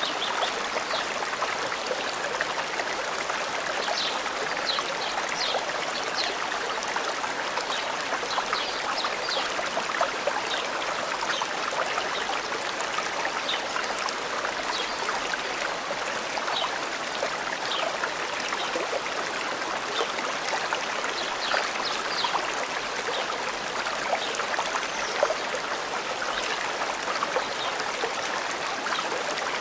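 A forest stream running steadily, with short high bird chirps scattered throughout.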